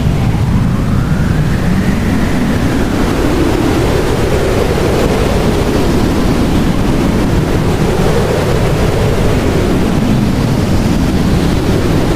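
Blizzard wind blowing steadily, with slow swells every few seconds. About a second in, a faint whistle rises and falls.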